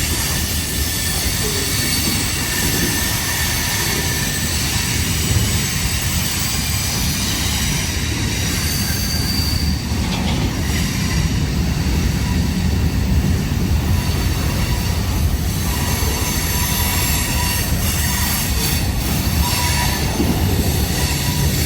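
Freight train of mostly empty dumpster cars rolling past: a steady rumble of steel wheels on rail, with thin high-pitched wheel squeal over it.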